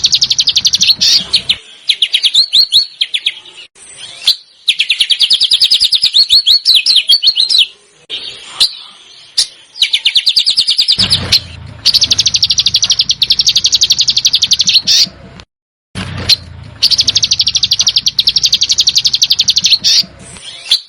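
A small songbird's harsh, very rapid rattling chatter (besetan), in repeated bursts of one to five seconds separated by short gaps. Some bursts carry a faint low hum beneath them.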